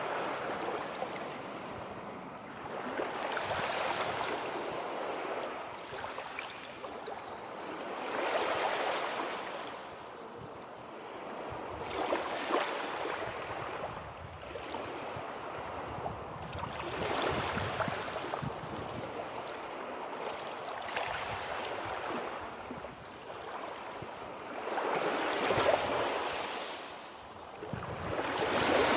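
Sea waves breaking and washing on a shore, swelling and fading in slow surges every four to five seconds.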